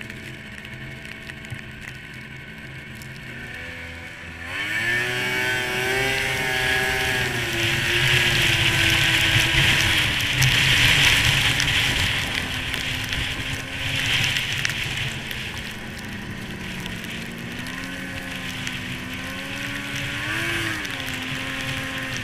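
1998 Arctic Cat SRX 700 snowmobile's three-cylinder two-stroke engine idling low, then revving up about four seconds in and running under throttle, its pitch rising and falling as the rider accelerates and eases off.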